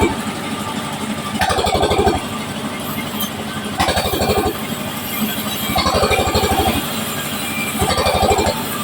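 Power saw cutting waru wood: a steady machine run with four louder cuts about every two seconds, each lasting under a second, as pieces are sawn to 3x4 cm.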